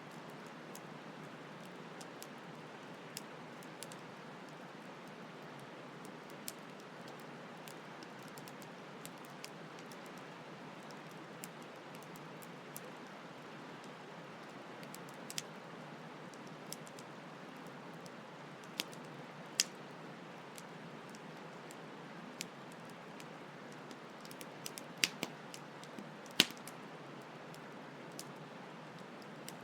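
Campfire crackling, with scattered sharp pops that are loudest in the second half, over a steady rush of flowing stream water.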